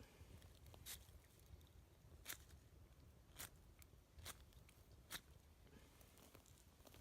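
Wood fire crackling: faint, irregular sharp pops and snaps.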